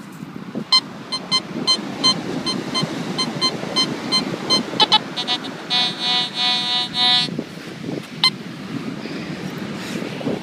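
Metal detector sounding off over a target: a string of short, sharp beeps, then a rapid run of longer, lower tones around six to seven seconds in, and one last beep, over steady wind noise.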